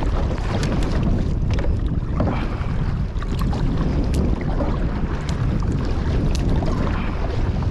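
Wind buffeting the microphone in a loud, steady rumble, with water slapping and splashing against the kayak in scattered short ticks.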